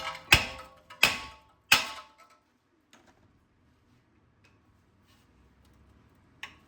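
Hammer striking a car's front brake disc to knock it loose from the hub: three sharp, ringing metal blows about two-thirds of a second apart in the first two seconds, a few light taps after, and one more knock near the end.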